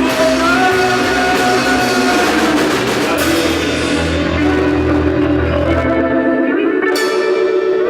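Live rock band playing: electric guitars, bass and drum kit. The cymbals and drums drop out for a few seconds partway through and come back in with a crash near the end.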